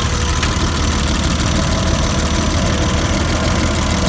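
BMW E34 engine running steadily while air is being bled from its cooling system, which the owner suspects is losing coolant through a blown head gasket or a warped head.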